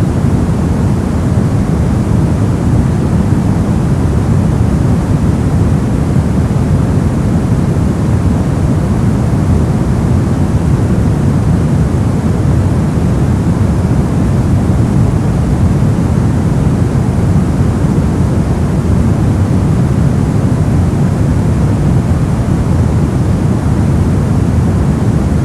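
Steady noise track sold as white noise, though deep and rumbling rather than bright, with most of its energy low down and a softer hiss above. It runs evenly and never changes.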